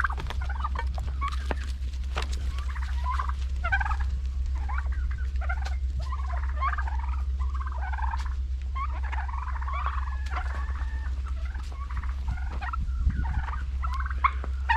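Domestic turkeys gobbling, many short calls in quick, overlapping succession, over a steady low hum.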